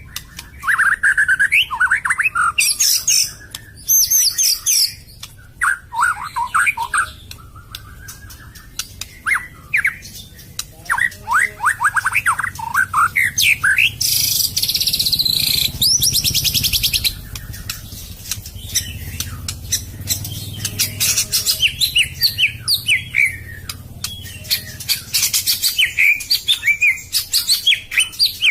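White-rumped shama (murai batu) singing a varied song of rapid chirps and short whistled phrases, with a harsh rasping burst about halfway through.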